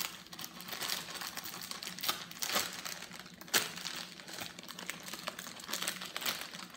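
Plastic candy bag crinkling and rustling as it is handled, with irregular crackles and a few sharper snaps about two and three and a half seconds in.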